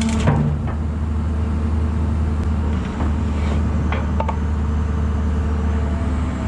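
Engine running steadily at a constant speed, with a few sharp knocks about a third of a second in and again around the middle.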